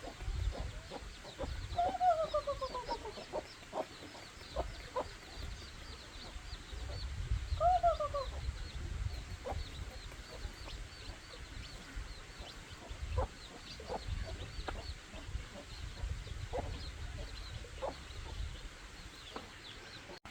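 Chickens: two falling calls from a hen, about two and eight seconds in, over a scatter of faint high peeps and a low rumble.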